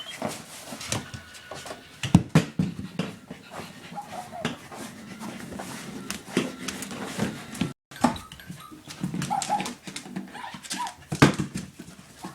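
Wheaten terrier mix puppy whimpering in short cries while playing, among many quick clicks and knocks from the toy and her paws on the floor. The sound drops out for an instant a little past the middle.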